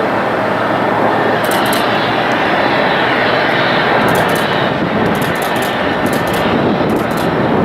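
Jet airliner's engines running loud and steady, with a faint high whine above the noise.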